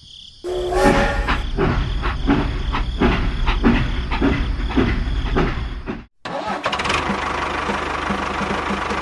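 A small engine running with an uneven beat, cutting off abruptly about six seconds in, then a steadier running sound with an even beat.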